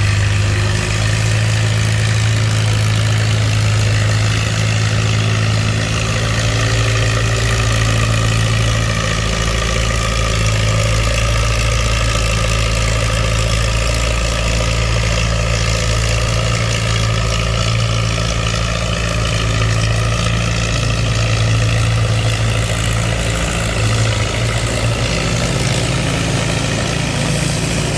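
Antique farm tractor engine running steadily and loudly, its pitch drifting only slightly.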